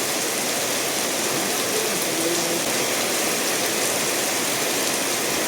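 Steady rain falling together with a stream running over stones, an even rushing hiss.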